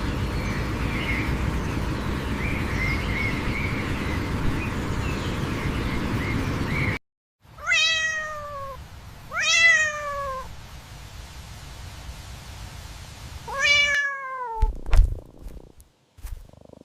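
A steady rushing noise with faint high chirps cuts off, then a cat meows three times, each meow falling in pitch, followed by a few low thumps.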